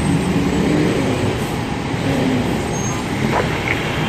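Heavy vehicle running on the road: a steady engine and road rumble with a wavering low tone, and a brief higher chirp a little past three seconds in.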